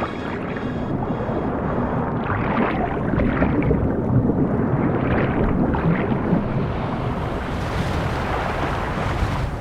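Ocean surf: a steady rush of breaking waves that swells a little midway.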